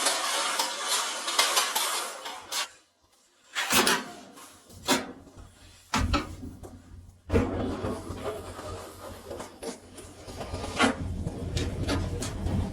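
Several sharp metal clanks and knocks of parts being handled, after an even hiss that stops about two and a half seconds in. A low steady hum runs under the second half.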